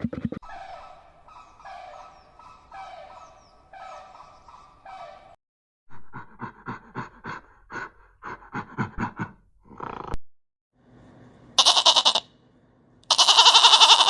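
A series of different animal calls. First about five evenly spaced, pitched calls, then a rapid chattering run of short notes, then two loud cries near the end, the second the longest and loudest.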